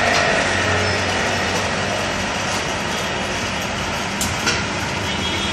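Alloy wheel repair machine running with a steady mechanical hum, with a couple of light clicks about four seconds in.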